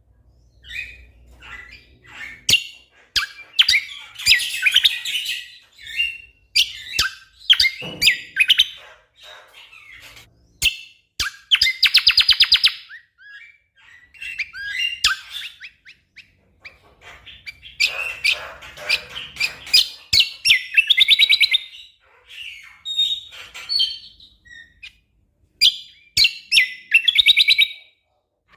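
A cucak kombo (kecial kombok) songbird singing a busy, varied song: sharp ticking notes and chirps broken up by dense rapid trills, with short pauses between phrases.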